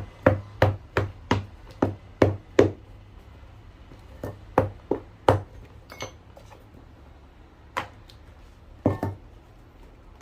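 A cobbler's hammer tapping a shoe sole: a quick run of sharp taps, about three a second, then a few irregular, spaced-out taps.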